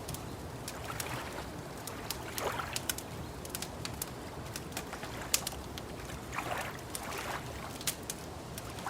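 Wood fire crackling, with frequent sharp pops and snaps scattered irregularly over a steady low background hiss. A few short, softer falling sounds come in between, about two and a half seconds in and twice near the end.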